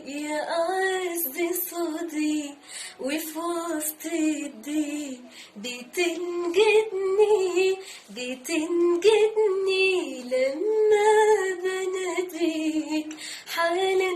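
A woman singing an Arabic Christian hymn in sustained, melismatic phrases, her melody gliding up and down with short breaths between phrases.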